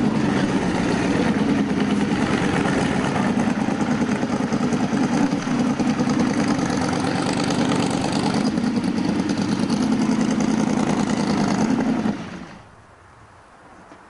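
A car engine idling steadily, then stopping abruptly about twelve seconds in.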